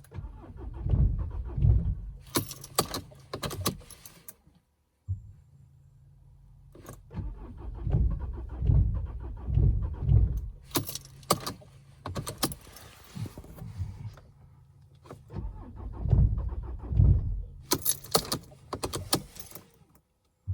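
Mercedes-Benz C220 CDI (W204) four-cylinder diesel being cranked by its starter in three long attempts, with uneven pulsing and rattling, not catching between them: a hard cold start in about −15 °C.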